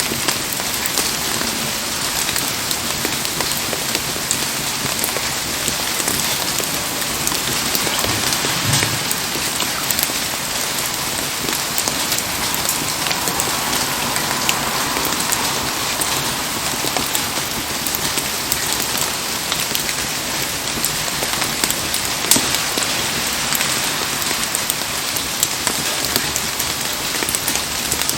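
Heavy rain falling steadily, a dense even hiss with scattered sharp ticks of drops striking.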